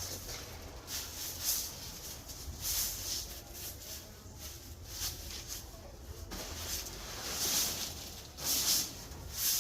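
Irregular short scratching and rustling in dry coop bedding, a few hissy scrapes every second or two over a low steady rumble.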